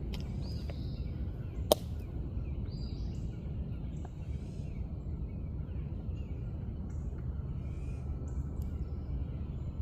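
Birds chirping in short, scattered calls over a steady low background rumble, with one sharp click a little under two seconds in.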